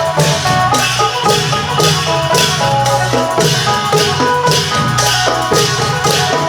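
Isan klong yao procession music: a phin (Isan lute) playing a plucked melody over long drums, with cymbals keeping a steady beat.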